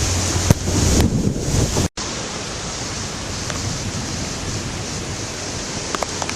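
Hurricane wind and driving rain. Wind gusts buffet the microphone with a low rumble, the sound breaks off for a split second just under two seconds in, and then an even hiss of wind-driven rain runs on with a few faint drop ticks near the end.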